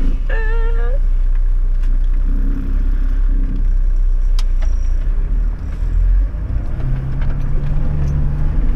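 Toyota LandCruiser 105 Series engine and drivetrain rumbling from inside the cabin as it crawls along a rutted dirt track. The engine note rises slightly and holds steady near the end.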